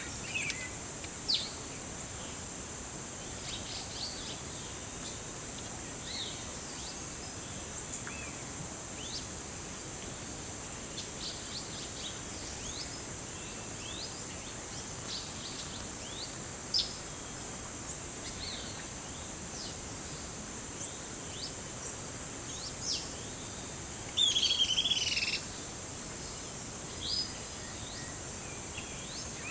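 Forest soundscape: a steady, high-pitched insect drone under scattered short bird chirps, with one louder bird call of about a second near the end.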